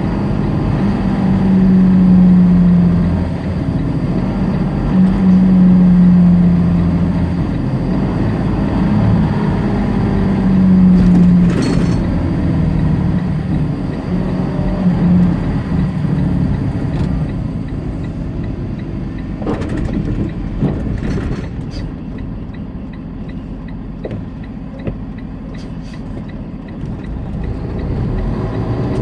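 Tractor-trailer's diesel engine running, heard from inside the cab along with road noise. A strong engine hum carries the first half with brief dips, then fades about halfway through, leaving quieter road noise and a few short knocks.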